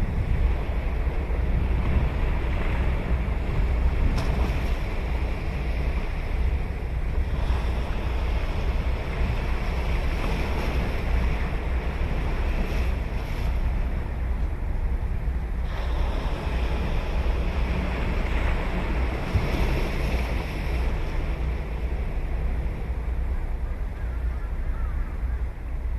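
Sea surf breaking and washing up the beach in long swells that rise and fall every few seconds, over a heavy low rumble of wind on the microphone.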